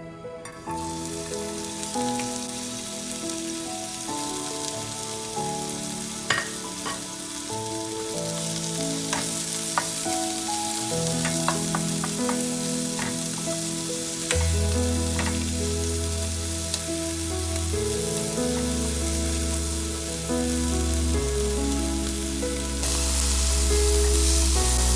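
Food sizzling in a frying pan, a steady hiss that starts about half a second in, with scattered clicks of a utensil being stirred against the pan. Gentle background music plays throughout, and a deep bass line comes in about midway.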